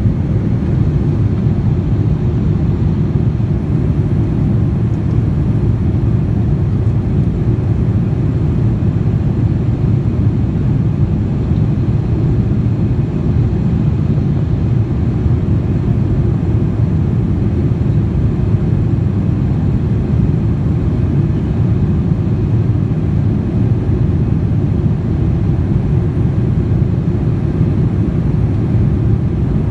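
Steady cabin noise of a Boeing 787-9 Dreamliner in flight: the engines and airflow make an even, deep rush that does not change.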